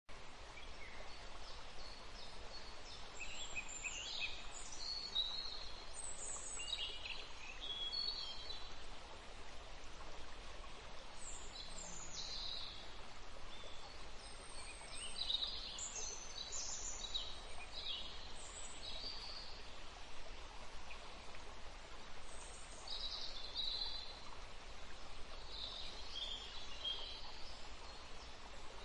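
Small birds chirping and singing in many short calls, some sliding up or down in pitch, over a steady background hiss.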